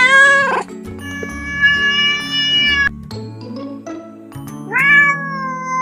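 Cats meowing three times over background music: a short meow at the start, a long drawn-out meow about a second in, and another long meow near the end.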